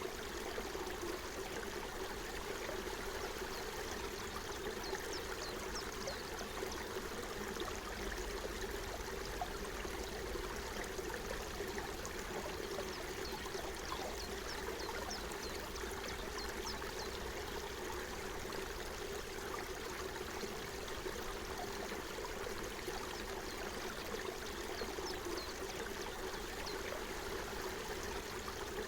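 Forest stream flowing steadily over stones, an even babble and trickle of running water, with short high ticks now and then.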